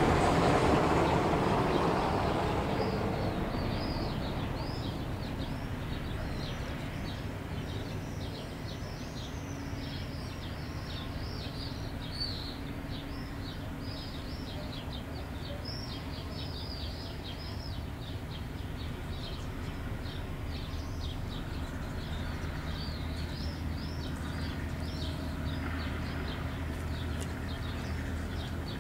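Small birds chirping rapidly, a dense run of short falling chirps, over a steady low engine hum. A louder passing vehicle fades away over the first few seconds.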